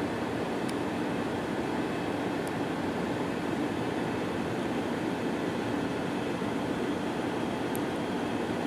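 Steady cabin noise inside an Airbus A320-214 airliner: an even rumble of its CFM56 engines and rushing air that does not change.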